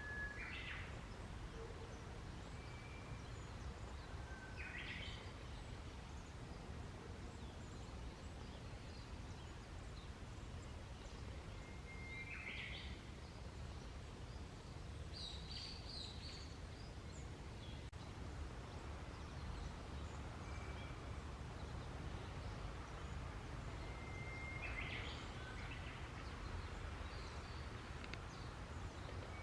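A songbird singing short whistled phrases every few seconds, about six in all. Each is a brief clear note followed by a quick higher flourish, over a steady low background rumble.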